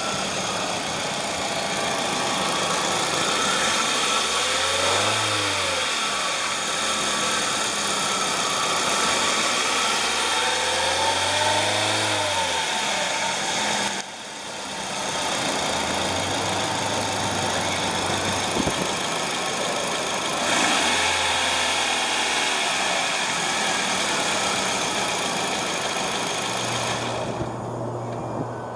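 2011 Hyundai Accent GL hatchback's four-cylinder engine idling and being revved four times in free rev, the pitch rising and falling back to idle each time.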